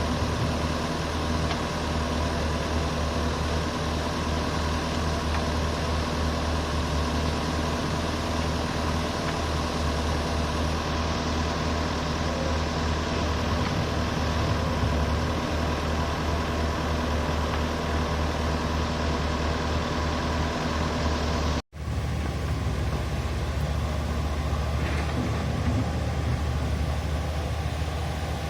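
Diesel engines of heavy earthmoving machinery running steadily with a deep drone. The sound drops out for an instant about three-quarters of the way through, where the recording is cut.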